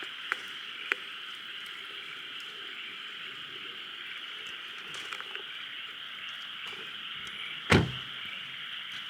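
A steady chorus of frogs calling. There are a couple of sharp clicks near the start and one loud knock about three-quarters of the way through.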